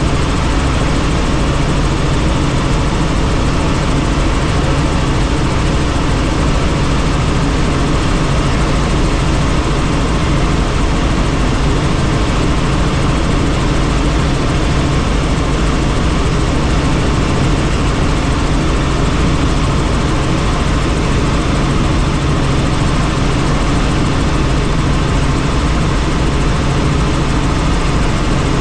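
Helicopter in flight heard from on board: steady rotor and engine noise under a constant rush of air.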